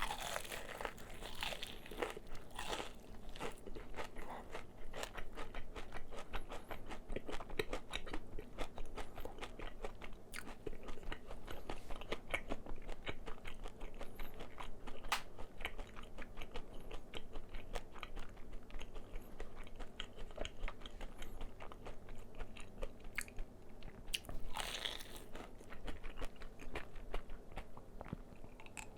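Close-miked biting and chewing of crispy fried chicken, the fried coating crackling and crunching in an uneven stream of small snaps, with louder bites at the start and again about 25 seconds in.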